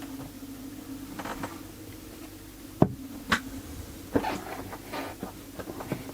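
Pliers and small metal parts handled on a workbench: a series of sharp clicks and knocks, the loudest about three seconds in, over a steady low hum.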